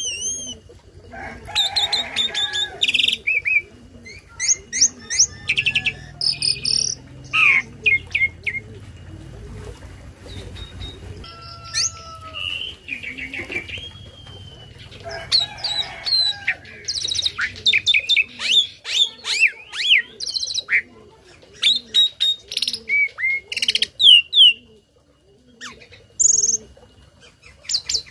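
Tame starling singing a varied song of whistles, chirps and fast trills mixed with imitations of other birds' calls, in bursts separated by short pauses.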